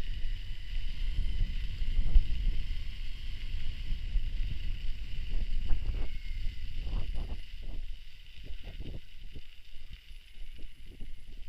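Wind buffeting the camera microphone during a mountain-bike ride, with scattered knocks and rattles. The rumble eases after about eight seconds, leaving mostly separate knocks.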